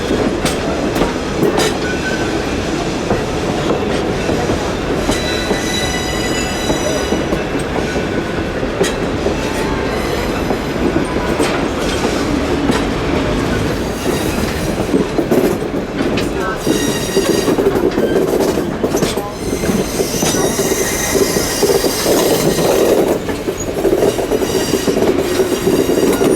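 Train rolling along the track: a steady rumble with wheels clacking over rail joints, and high wheel squeal that comes and goes, longest in the second half.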